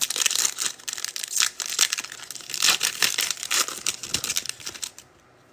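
Plastic trading-card pack wrapper crinkling and tearing open, an irregular crackle that dies away shortly before the end.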